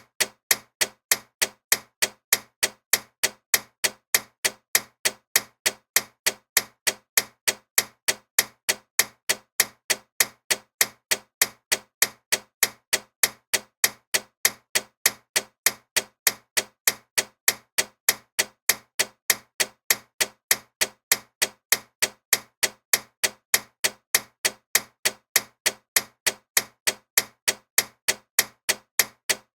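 Clock ticking loudly, with sharp, evenly spaced ticks that hold a steady rhythm.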